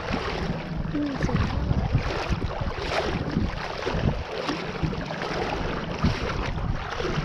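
Wind buffeting the microphone over the sound of the sea, with faint, indistinct voices of people nearby.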